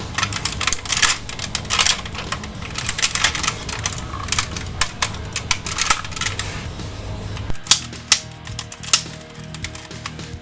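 Hard plastic toy robot parts clicking and knocking in quick, irregular succession as they are handled and fitted together, over background music.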